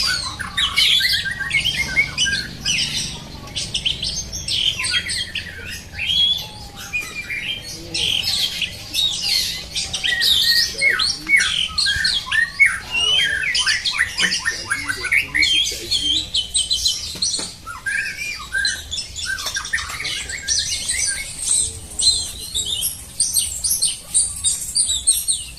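Songbirds singing on and on: a dense, rapid run of chirps, whistles and trills with hardly a break.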